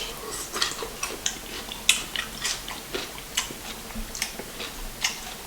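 Close-miked chewing and lip smacking while eating: a string of short, wet clicks at an uneven pace, a few a second.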